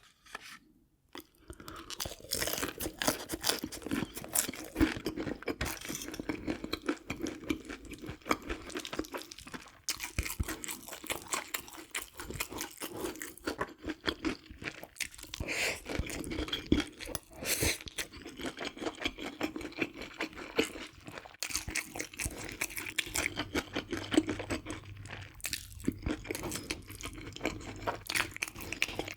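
Close-miked chewing and crunching of crisp fried chicken: a continuous run of wet crackles and crunches that begins after a brief pause.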